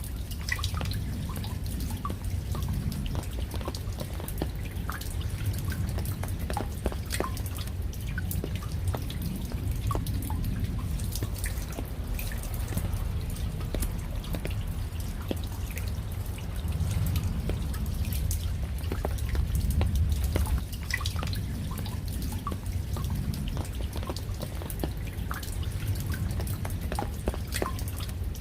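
Raindrops falling, heard as many scattered sharp drips and taps over a steady low rumble of rain.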